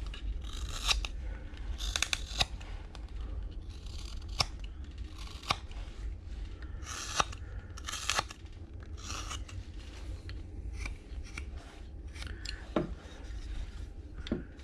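Carving knife slicing and shaving thin curls from a wooden figure: a series of short, irregularly spaced cutting strokes with small sharp clicks as the blade bites into and leaves the wood.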